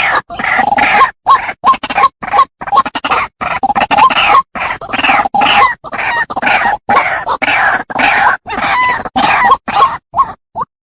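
White-breasted waterhen (ruak-ruak) calling loudly: a fast run of short, repeated notes, thinning to a few separate short notes near the end. The call is used as a lure to draw waterhens in.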